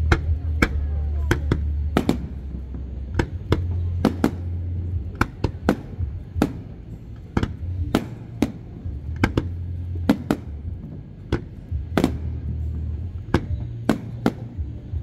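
Aerial fireworks shells bursting in a rapid, irregular string of sharp bangs, two or three a second, over a low steady drone of background music.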